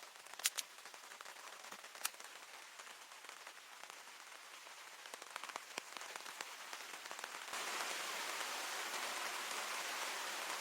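Rain falling steadily, with a few sharp drip ticks in the first couple of seconds; it grows louder and steps up suddenly to a heavier downpour about three-quarters of the way through.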